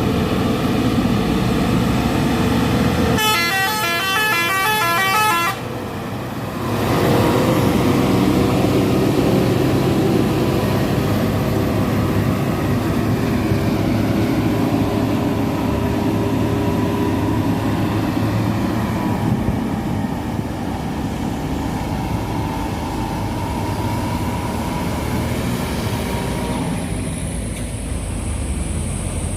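Heavy truck diesel engines running hard on a steep climb. About three seconds in, a multi-tone horn plays a quick run of alternating notes for about two seconds, after which the engine noise grows louder.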